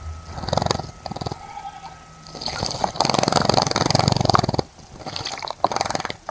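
A bird bathing in a bird bath, fluttering its wings in the water and splashing in three bouts. The longest and loudest bout comes in the middle.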